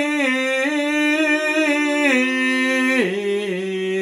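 A single voice singing in the drawn-out shigin chanting style, holding one long vowel with small wavering ornaments and stepping down in pitch about two seconds in and again about three seconds in.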